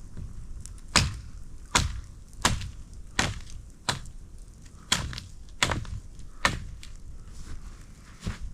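Sharp chops of a blade biting into a wooden stick, about eight strokes evenly spaced under a second apart, then a pause near the end: the stick being hacked to a point for a makeshift spear.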